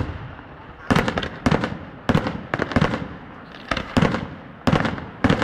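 Fireworks display: a rapid, uneven series of sharp bangs, about two a second, each trailing off into a rumble that fills the gaps.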